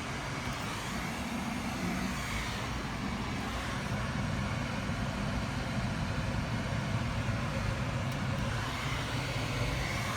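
A car running steadily, a low engine hum under an even noise that holds at one level.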